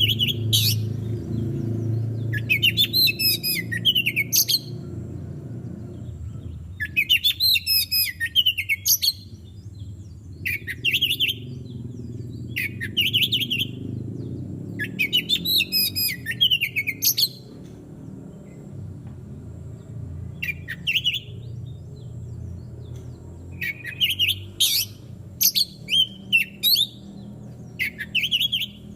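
Oriental magpie-robin (kacer) singing: loud, varied phrases of whistles and chattering notes, some long and tumbling, others short single calls, coming every second or two. A steady low hum runs underneath.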